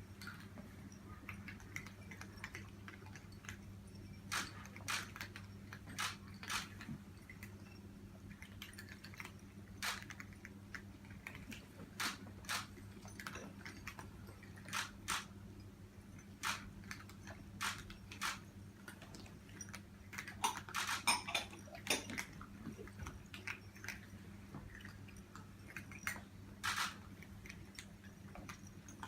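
Cats eating dry food: scattered crunches and sharp clicks, roughly one every second or two, with a brief dense flurry a little over two-thirds of the way in. A steady low hum runs underneath.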